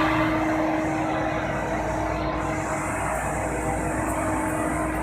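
LZ-200 vacuum twin shaft mixer running under test, a steady mechanical hum and whir; a higher hiss joins about halfway through.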